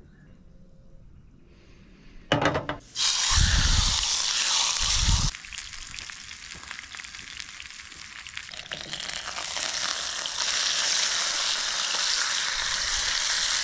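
Food frying in a hot pan. After a few clicks, a loud sizzle starts suddenly about three seconds in, with dull low thumps under it for a couple of seconds. It then eases off and builds back to a steady sizzle over the last few seconds.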